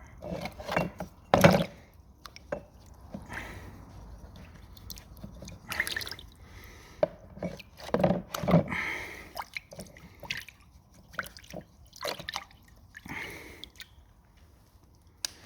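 Liquid dripping and splashing off metal engine pulleys lifted from a soaking bath, with bouts of brush scrubbing and a few sharp knocks of metal, the loudest about a second and a half in.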